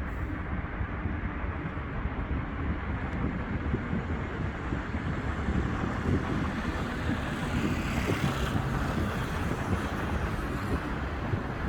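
Steady road traffic noise from passing cars, mixed with wind on the microphone, swelling briefly about eight seconds in.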